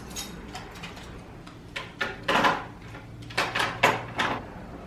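A handful of knocks and clatters as decor items are handled and set down on a table, most of them between about two and four seconds in.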